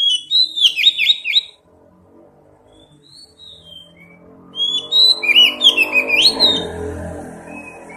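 Oriental magpie-robin (kacer) singing two loud bursts of rapid, varied whistles and trills, with a few faint notes between them, over background music that swells near the end.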